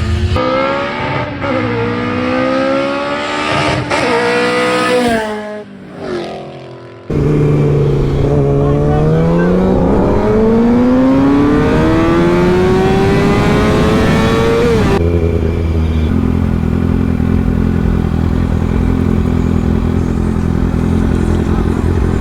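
Motorcycle engine accelerating, its revs climbing and dropping several times in the first five seconds as it shifts, easing off briefly around six seconds, then a long steady pull up through the revs. From about fifteen seconds on it holds a steady engine note.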